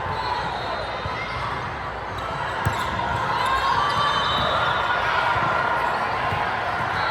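Basketball being dribbled on a gym court, with a sharp knock about two and a half seconds in, over steady crowd and player voices.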